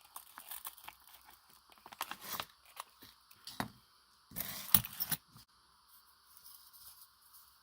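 Scattered small clicks, taps and scrapes of small craft pieces being handled while a hole is poked into them, with a louder cluster of scraping and clattering about four and a half to five seconds in.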